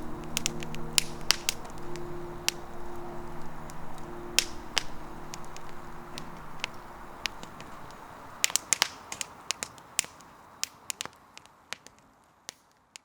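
Wood campfire crackling and popping with irregular sharp snaps. Soft background music runs under it for the first half, then the whole sound fades out near the end.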